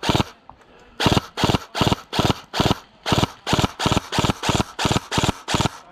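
Jogging footsteps on the ground, each step a heavy thud close to the microphone, about three a second, with a brief pause about half a second in.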